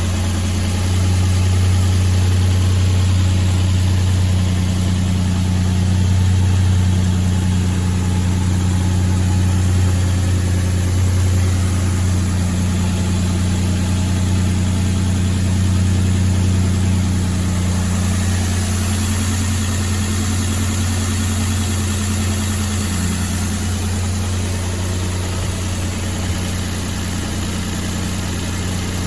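2007 Nissan Frontier's 4.0-litre V6 idling steadily. Its pitch settles slightly lower about three-quarters of the way through.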